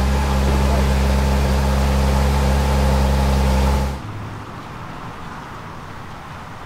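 Ferrari F12tdf's 6.3-litre V12 idling steadily and loud. About four seconds in it cuts off suddenly, leaving a much quieter low rumble and outdoor background noise.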